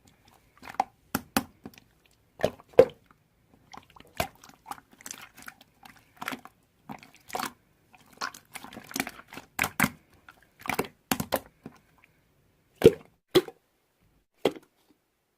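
Slime being squished and pressed by hand, giving irregular wet, sticky clicks and pops, the loudest about three seconds in and near the end.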